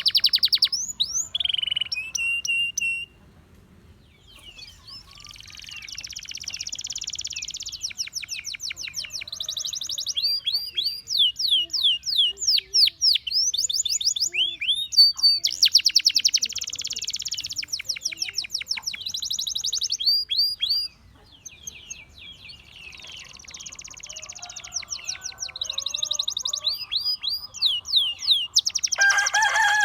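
Gloster canary singing: long phrases of fast trills, rapid repeated notes and quick sweeping notes, broken by short pauses about three seconds in and again about twenty-one seconds in. A lower-pitched call cuts in at the very end.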